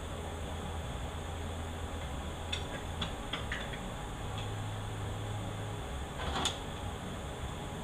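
A few light metallic clicks, then one sharper clink near the end, as 4L80E transmission parts are handled during teardown, over a steady low hum.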